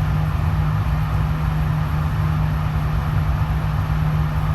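Steady low hum with an even rushing noise underneath and no gunshots: the running air handling of an indoor shooting range.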